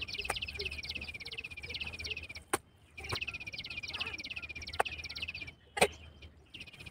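A bird trilling: rapid runs of quick, high, falling chirps, two runs of about two and a half seconds each with a short gap between and a brief third run at the end. A few sharp knocks sound in between.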